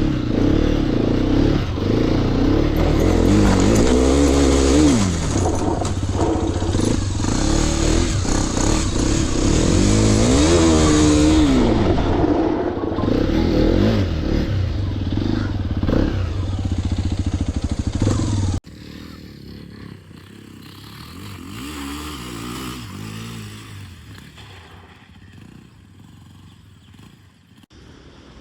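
Hero XPulse 210 motorcycle's single-cylinder engine revving up and down while riding, over a steady rushing noise. About 18 seconds in, the sound cuts abruptly to a much quieter engine.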